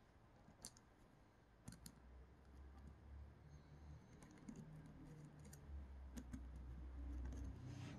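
Faint, scattered light clicks and taps of small extruder parts being handled by hand, a few at a time with a short cluster in the middle, over a low rumble that comes in about two seconds in.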